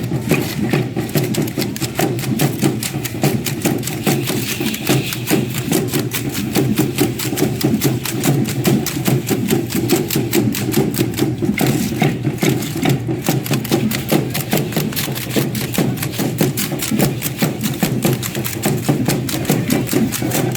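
Matachines dance music: a fast, steady rhythm of many sharp percussive beats a second, the clatter of the dancers' rattles and steps over a drum.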